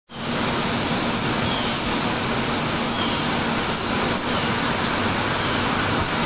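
A loud, steady rushing noise that starts abruptly, with a high, steady buzz over it, typical of a chorus of cicadas.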